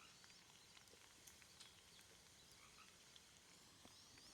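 Near silence, with faint scattered crackles from a small wood fire with bacon frying over it.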